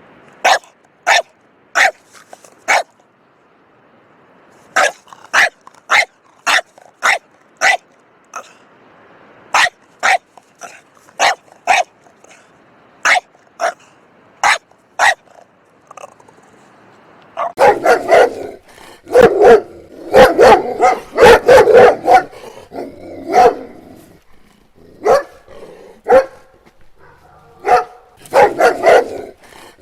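Dog barking: short, sharp barks in groups of four or five with pauses between. About halfway through, it changes to denser, lower-pitched barking in quick runs.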